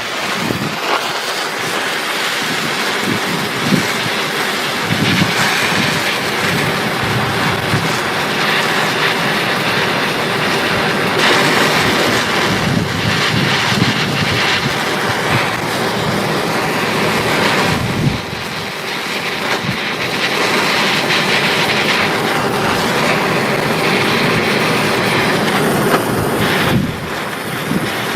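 Handheld torch flame blowing steadily while it lights wood pellets at the bottom of a smoker tube, easing off briefly twice near the middle and near the end.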